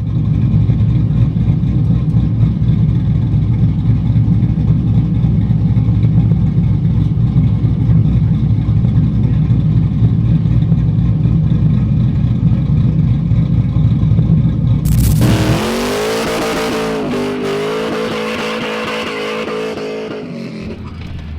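Drift truck engine running loud with a deep, steady rumble for about fifteen seconds. It then cuts abruptly to a higher engine note that rises and dips, with a hiss above it.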